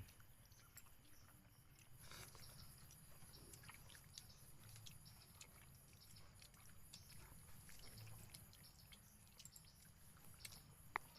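Near silence: faint chewing and small clicks of someone eating, over a low steady hum.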